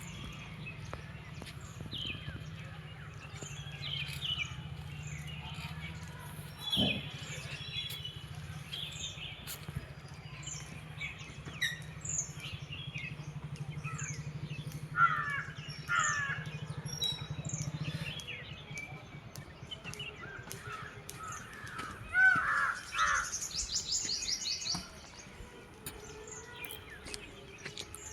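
Several birds chirping and calling, with a fast high trill and a few louder calls in the second half. A low steady drone runs underneath and stops about two-thirds of the way through.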